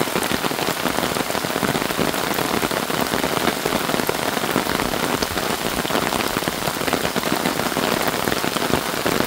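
Rain falling steadily: an even hiss made up of countless tiny drop impacts.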